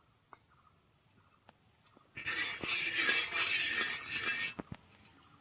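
Mustard oil hitting a hot iron tawa and sizzling loudly for about two seconds, starting about two seconds in.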